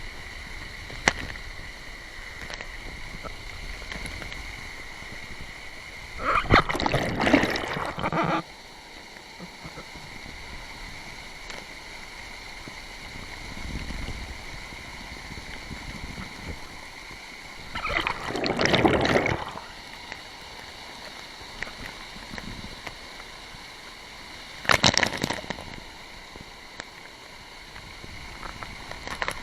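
Running water at a waterfall, with three louder splashing surges: two lasting a couple of seconds about six and eighteen seconds in, and a brief one near twenty-five seconds.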